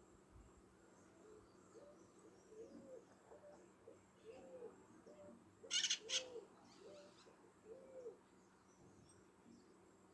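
A bird giving a series of about eight low, evenly spaced hooting notes, with two short, sharp, louder calls close together partway through.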